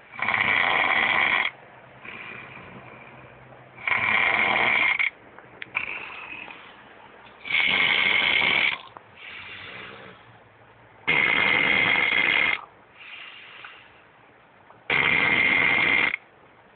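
Pit bull dog snoring in its sleep: five loud snores, one every three and a half to four seconds, each lasting over a second, with a fainter snore between each.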